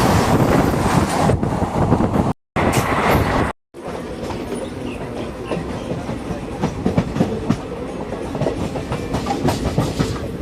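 Train running on rail track, with wheels clicking and clattering over the rails. The sound is heaviest in the first two seconds, then settles into steadier running with frequent ticks. The sound cuts out completely twice, briefly, between two and four seconds in.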